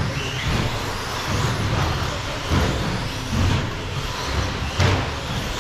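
Radio-controlled short course race trucks running on the track, their motors whining up in pitch again and again as they accelerate, over a low rumble. A sharp knock comes near the end.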